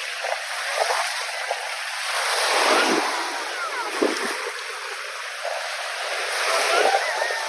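Caspian Sea waves washing onto the shore, the surf swelling and falling back a few times. A few short whistling calls come in near the end.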